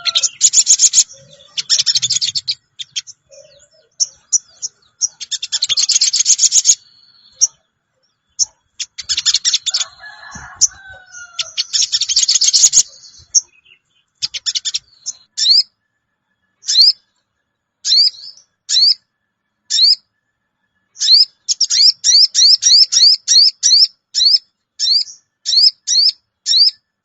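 Sogon bird calls played as a lure: several loud, rapid, buzzy chattering bursts, then a series of short rising "cuwit" notes that quicken to about two a second.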